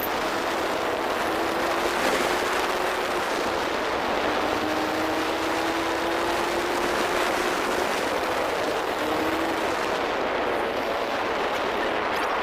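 A vehicle on the move: steady wind and road rush over an engine hum whose pitch climbs slowly and falls back a few times.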